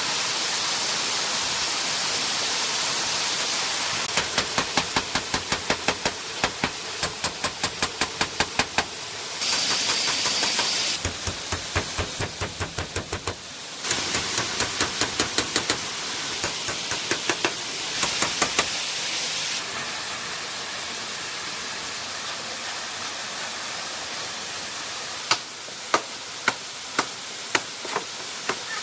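Steady rush of falling water with runs of sharp knocks, about three or four a second, that start and stop abruptly several times, then a few scattered knocks near the end.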